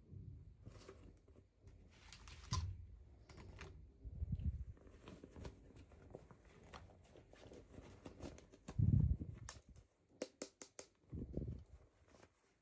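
Hands handling toy packaging and small plastic doll parts: soft knocks and light rustling, with a quick run of small clicks about ten seconds in.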